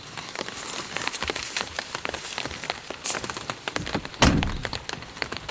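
Rain falling on a tent, with drops tapping irregularly. A single louder thud sounds about four seconds in.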